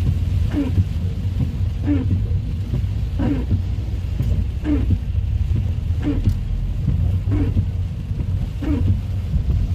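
Steady rain with a heavy low rumble, and a short falling squeak that repeats evenly about every second and a third.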